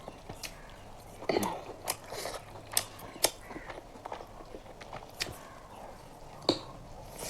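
Close-miked eating sounds: biting into and chewing a piece of curried chicken, with irregular sharp wet mouth clicks and smacks.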